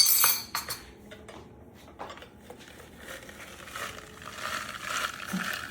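A sharp metallic clatter of a hand juice squeezer being handled, then quieter crackling and crunching that builds from about three seconds in as pomegranate seeds are pressed in it.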